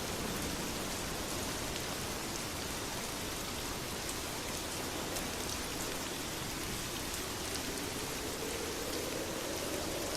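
Steady rainfall in a rainstorm: an even hiss with scattered light ticks.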